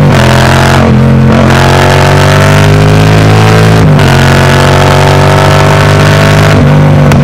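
Yamaha MT-07's parallel-twin engine through a MIVV Delta Race full exhaust, accelerating through the gears. The note climbs, drops briefly at each upshift about a second in, near four seconds and near six and a half seconds, then climbs again.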